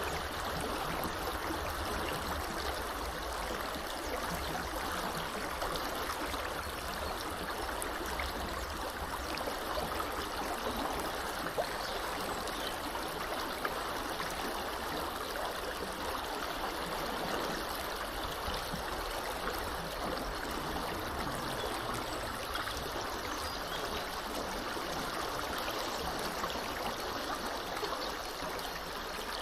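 Small river flowing steadily, a continuous rushing and babbling of water over its bed.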